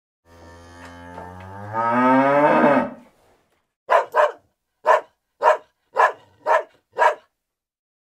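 A cow mooing once, a long low moo that rises in pitch, followed about a second later by a dog barking seven times in quick succession.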